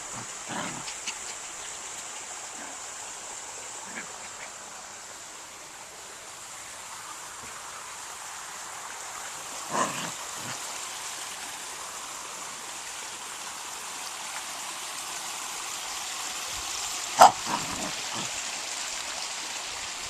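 Puppies yelping briefly, once about halfway through and once more, louder, near the end, over a steady outdoor hiss.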